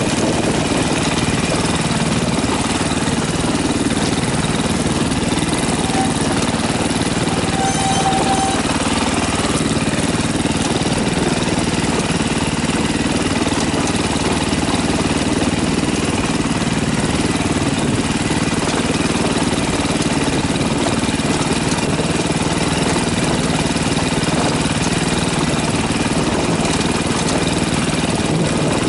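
KTM dirt bike engine running at a steady, even pace, heard on board while riding over a rocky trail, with no revving up or down.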